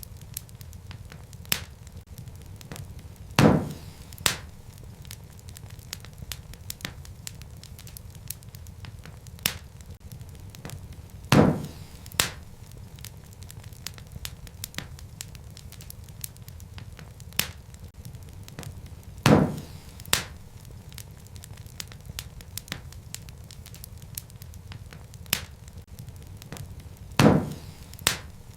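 Wood fire crackling over a steady low rumble, with sharp pops. The same pattern of a loud pop followed by a smaller one comes back about every eight seconds, four times, as in a short repeating loop.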